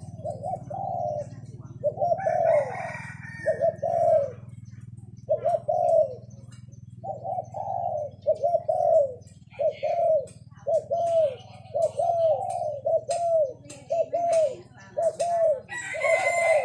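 Decoy doves cooing: a long run of short, arched coo notes, about one to two a second, with hardly a break.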